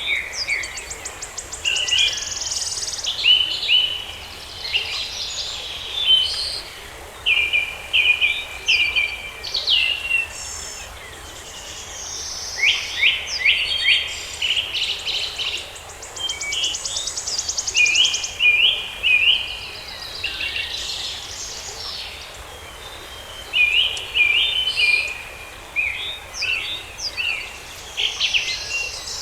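Several songbirds singing and chirping, with quick repeated notes and rapid trills coming in bursts every second or two, over a faint steady background hiss.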